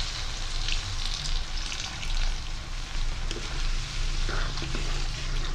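Sautéed vegetables sizzling in a hot granite-coated wok as tamarind water is poured in, with a spatula stirring and scraping through the mixture.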